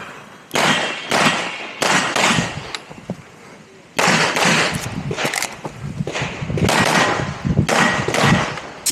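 Rapid pistol shots from a competitor running an IPSC stage: several shots about half a second apart, a short lull from about two to four seconds in, then a fast run of shots.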